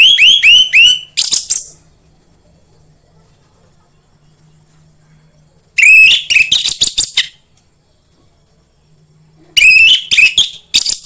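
Orange-headed thrush (anis merah) singing loud song phrases: three bursts, each a quick run of repeated hooked whistled notes that breaks into a rapid clicking rattle, with pauses of a few seconds between them.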